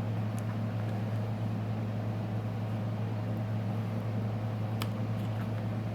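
A steady low hum with a faint hiss, and two faint clicks, one about half a second in and one near the end.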